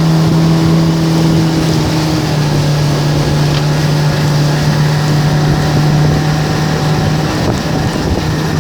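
A motorboat's engine running steadily under way, a constant hum with wind buffeting the microphone and water rushing past the hull.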